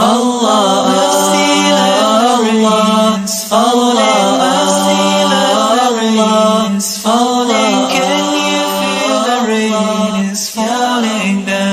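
Music: a wordless vocal melody over a steady low drone, in sliding phrases about three and a half seconds long, in the style of an a cappella nasheed.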